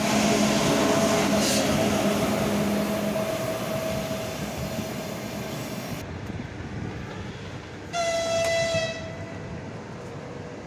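A train runs loudly with a steady hum that fades over the first few seconds. About eight seconds in, an electric locomotive's horn sounds once for about a second.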